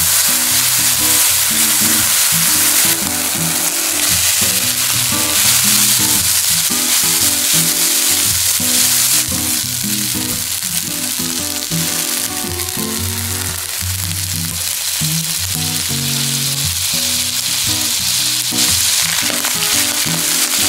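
Diced chicken, onion and cooked rice sizzling in a hot nonstick frying pan as they are stirred with a spatula, with background music playing underneath.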